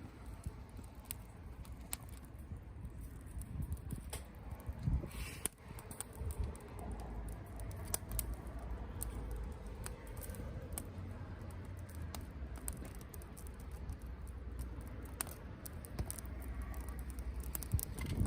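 Wood campfire burning, with scattered sharp crackles and pops over a low steady rumble.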